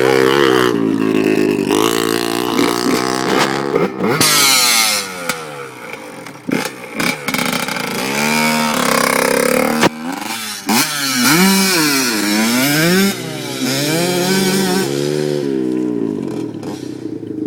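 Off-road vehicle engine revving hard, its pitch climbing and dropping again and again as it accelerates and shifts, with a short burst of hiss about four seconds in and a sharp click near the ten-second mark.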